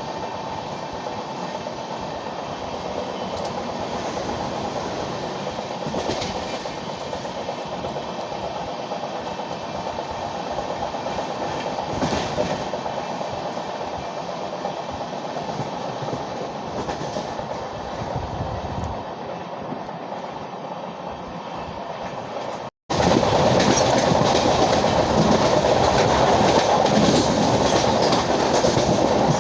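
Express train with LHB passenger coaches running on the track: a steady rumble of wheels on rail with clickety-clack over the rail joints. After a sudden cut about 23 seconds in, the running noise comes back much louder.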